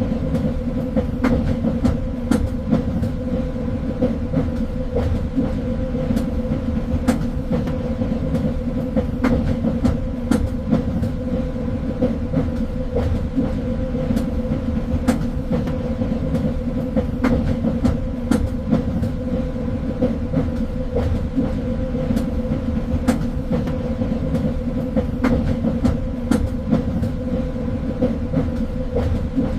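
Train running along the track: a steady rumble with a constant hum, and frequent sharp clicks and knocks from the wheels on the rails.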